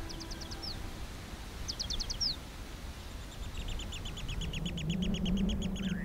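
Wild birds calling over a low outdoor rumble: two short trills of rapid high notes, each ending in a falling note, then a longer run of fast repeated chirps from about three and a half seconds in. A low steady hum comes in underneath during the second half.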